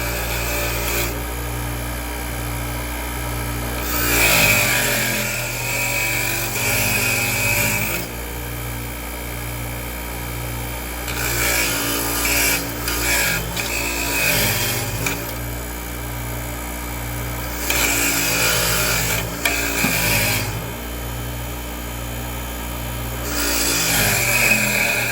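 A power tool running steadily, with louder scraping passes every few seconds as it works over metal, in keeping with cleaning up the van's rusty brackets.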